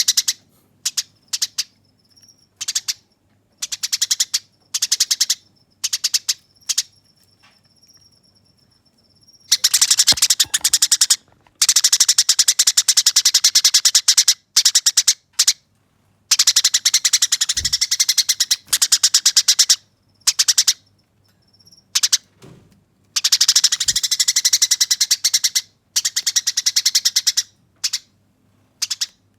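Eurasian tree sparrows fighting, giving harsh, rapid chattering calls. The calls come in short bursts at first, then run into long unbroken rolls of several seconds each, with a thin high whistle under the quieter first part.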